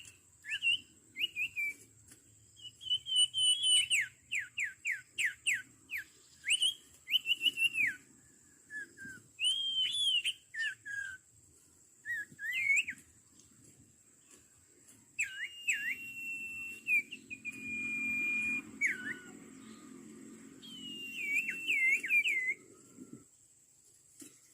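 Sirtu birds (common iora, also called cipoh) calling in clear whistled notes, many sweeping sharply downward, with a quick run of notes about four seconds in and a few longer held whistles later. A faint steady high tone runs underneath.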